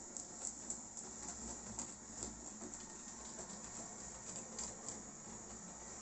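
Tri-ang 00-scale Jinty tank locomotive model running with a short goods train: a steady motor whir scattered with light, irregular clicks of wheels on the track.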